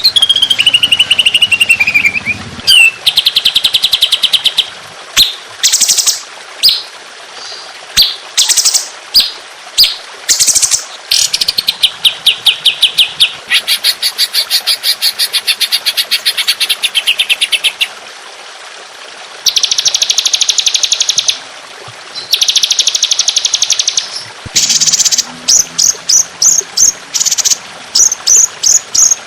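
A mix of recorded songbird song, a training track for cage birds: long runs of very fast repeated high notes, some held for several seconds, with a falling whistle at the start and a string of short, quick bursts near the end.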